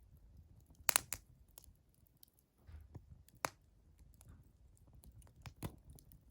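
Burning firewood crackling, with irregular sharp pops: a quick cluster about a second in, then single loud pops at about three and a half and five and a half seconds.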